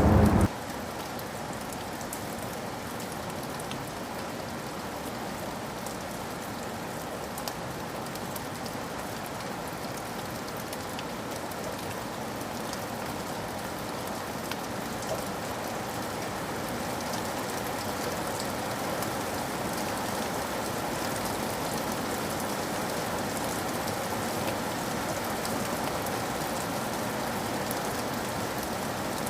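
Steady rain falling, an even hiss with scattered drop ticks, slightly louder in the second half. A loud low rumble cuts off about half a second in.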